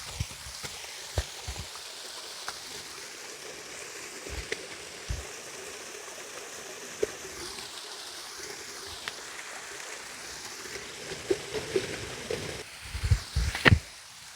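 Creek water running steadily, with scattered short knocks and bumps and a cluster of louder thumps near the end.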